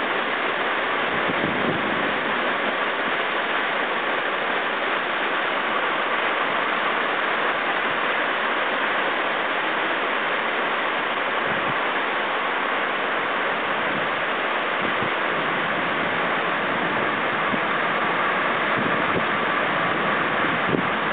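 Heavy downpour with floodwater rushing down the street: a steady, unbroken rushing noise of water.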